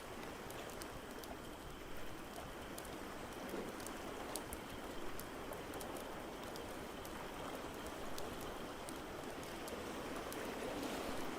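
Layered ambience: a steady rush of water noise from waves or rain, swelling slightly near the end, with scattered sharp crackles and pops of a wood fire.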